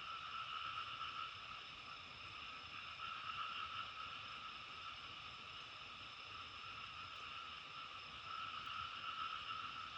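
A steady, dense chorus of many calling animals blending into an even, continuous drone, with no single call standing out.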